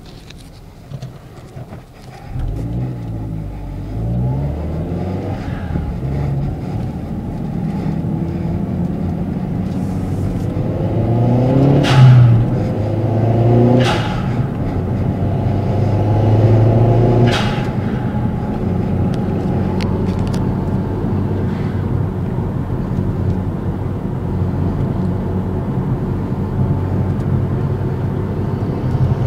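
Turbocharged 2.3-litre four-cylinder of a Mazdaspeed 3 with an HKS cat-back exhaust, pulling away about two seconds in and revving up and down through the gears. Three sharp venting hisses from its Turbo XS RFL blow-off valve come in the middle stretch as the throttle lifts, before the engine settles into a steady cruising note.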